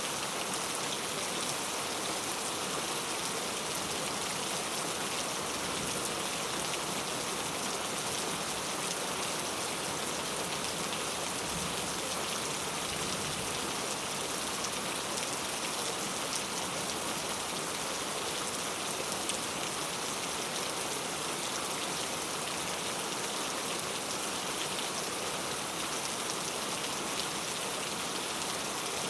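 Heavy rain falling steadily, a dense even hiss of drops hitting hard surfaces, with faint scattered ticks of individual drops.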